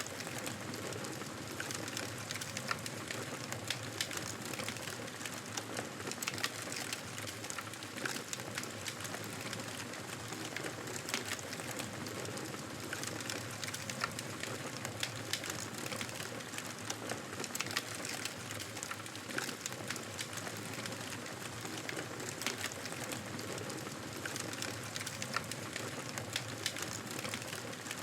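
Wood fire crackling in a fireplace: a steady low hiss with frequent small snaps and pops throughout.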